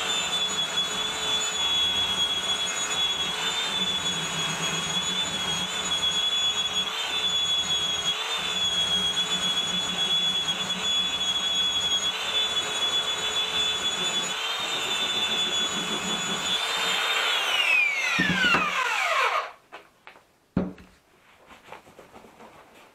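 A high-speed electric power tool runs with a steady, high-pitched whine. Near the end it is switched off and its pitch falls as the motor spins down, then a single knock follows, as if the tool were set down.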